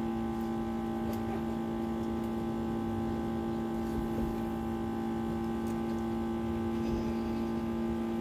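A steady hum made of several held tones over a low rumble, unchanging throughout.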